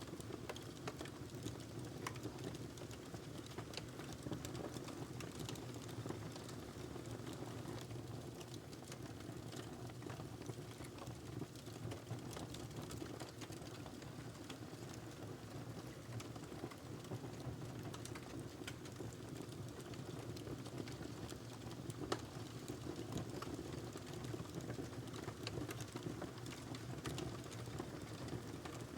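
Wood fire in a fireplace burning with a steady low rumble and a continuous scatter of small crackles and pops, one sharper pop about two-thirds of the way through.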